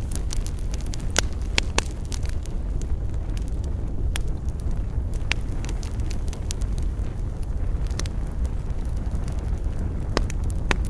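Wood campfire burning and crackling, with sharp pops scattered throughout over a steady low rumble; the pops come thickest about a second in and again near the end.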